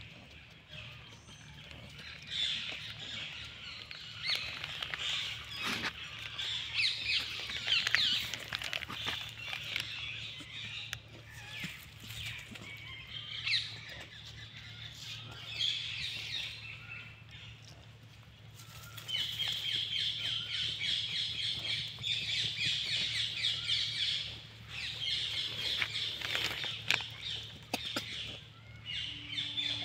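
Birds chirping and calling in high, short notes, thickening into a rapid run of chirps about two-thirds of the way through, over a low steady hum.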